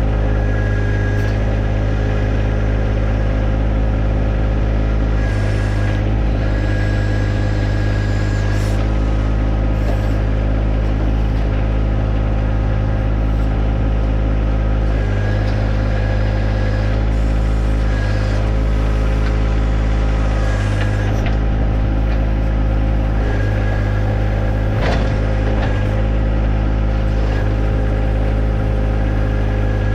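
John Deere 1025R compact tractor's three-cylinder diesel engine running steadily while working a 260B backhoe, with a faint high whine that comes and goes.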